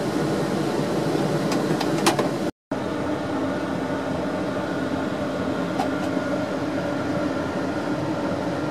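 Steady hum of a stationary train carriage's onboard equipment running, heard from inside the car, with a sharp tick about two seconds in. The sound cuts out for a split second just after.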